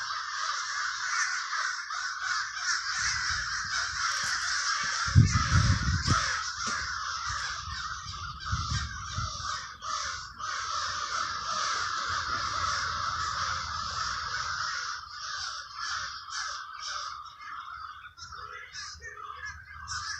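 A large flock of crows cawing at once in a dense, overlapping din; the calls become more separate and broken up near the end. A brief low rumble about five seconds in is the loudest moment.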